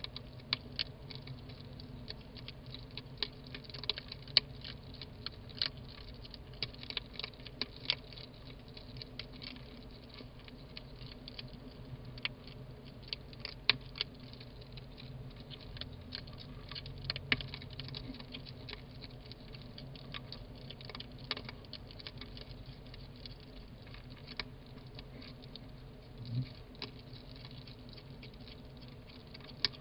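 Two hedgehogs eating, with irregular, quick crunching and smacking clicks as they chew, over a steady low hum.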